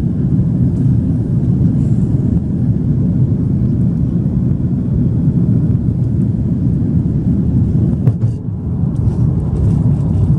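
Steady low rumble of engine and airflow noise inside the cabin of an Airbus A330-300 airliner in flight, with a few faint clicks about eight seconds in.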